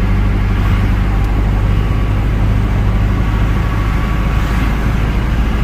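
Steady low drone of engine and road noise from a vehicle driving along.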